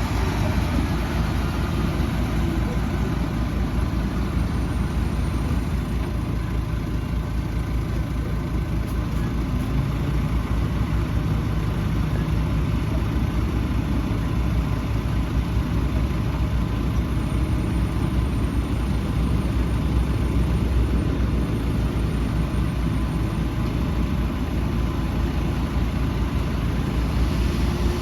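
Heavy diesel engine of earthmoving machinery running steadily at an even speed, with a low, close-spaced pulsing throughout.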